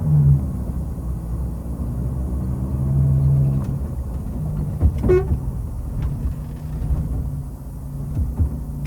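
Truck engine running steadily on the road, with a short horn beep about five seconds in.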